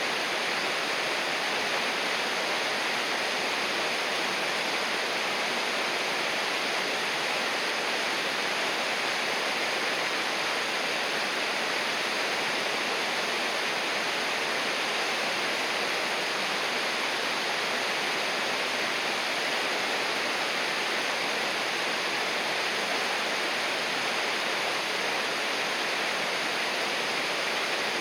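River water rushing and splashing over rocks in a steady, unbroken wash of sound.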